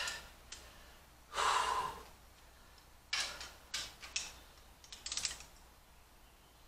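Hand tools clicking on cylinder head bolts: a torque wrench and ratchet being worked, giving several sharp separate clicks and a brief rapid ratcheting run about five seconds in. A short breathy rush comes before them, about a second and a half in.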